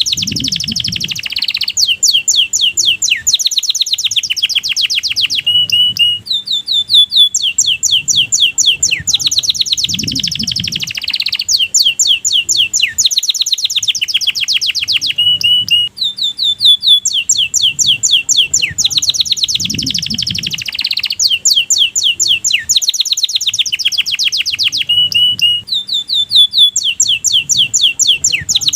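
Domestic canary singing a continuous song of fast trills, each a rapid run of repeated high notes, changing from one trill to the next with short breaks. The same series of phrases comes round about every ten seconds.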